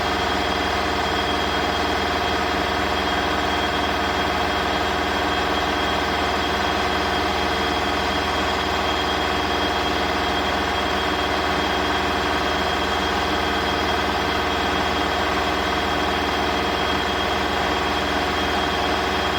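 Bosch Aqua Star washing machine spinning at a constant speed: a steady motor whine with a high tone on top and a low hum of vibration, unchanging throughout.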